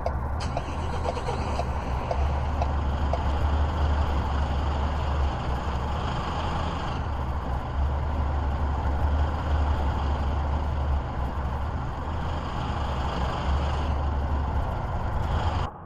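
A vehicle running: a steady low engine and road rumble with a broad noise over it. There is faint, regular ticking in the first few seconds, and the sound cuts off just before the end.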